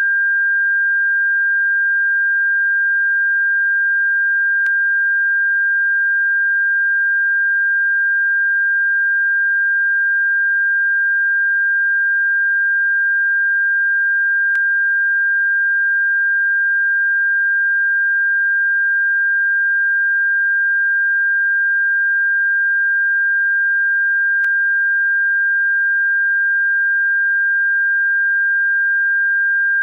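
Electronically generated steady high-pitched sine tone, held at one pitch without a break, played as a bird-repellent sound. A faint click comes three times, about every ten seconds.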